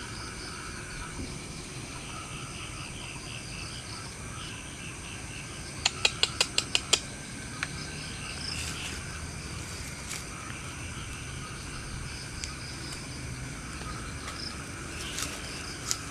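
Night insects such as crickets chirping steadily in a pulsing chorus. About six seconds in there is a quick run of about seven sharp clicks, the loudest sound, and a few single clicks follow later.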